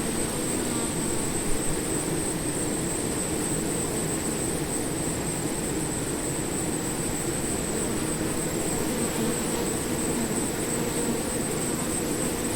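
A swarm of bees buzzing steadily, a dense low hum with a thin high whine held over it.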